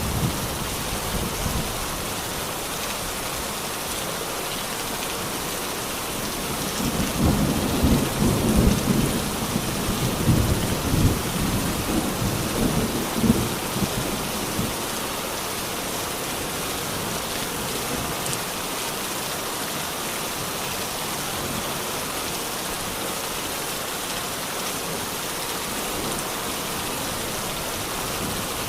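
Steady rain falling, with a low rolling rumble of thunder from about a quarter of the way in until about halfway through.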